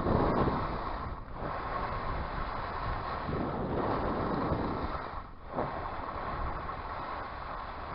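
Wind rushing over the microphone of a skier moving fast down a groomed run, a steady noise that eases briefly twice.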